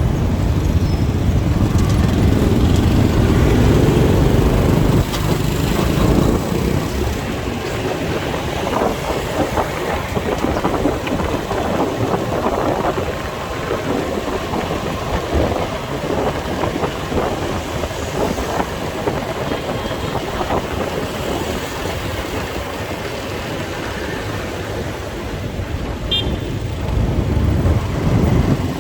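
Motorcycle on the move in city traffic: a steady rush of engine and road noise, louder for the first five seconds or so.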